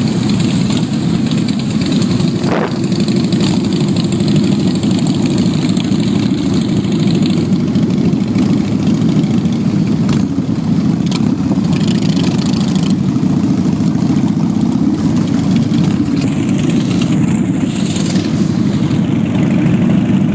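Motorcycle engines running steadily, a dense low rumble that stays even throughout, with a few faint clicks.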